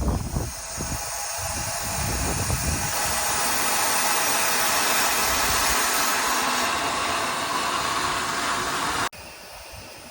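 Steam engine venting steam in a loud, steady hiss that builds over the first couple of seconds, with a low rumble at the start, and cuts off suddenly near the end.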